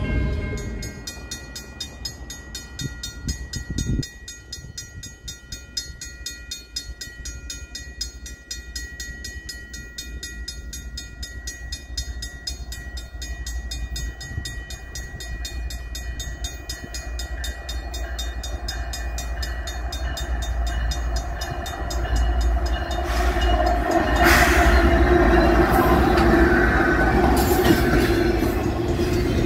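Railway crossing bell ringing in a steady, fast repeating pattern. Over the last several seconds an approaching train grows much louder, rumbling, with a few clanks.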